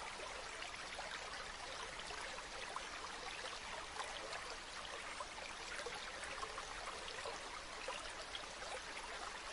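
Flowing water: a stream or small waterfall running steadily, a constant splashing rush with many small droplet splashes in it.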